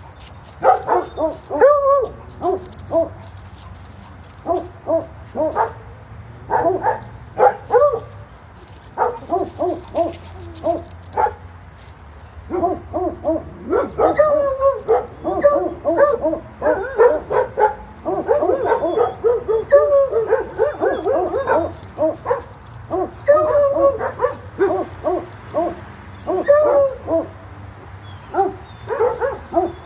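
Dogs barking over and over, the barks overlapping in dense runs, with short lulls about four and eleven seconds in.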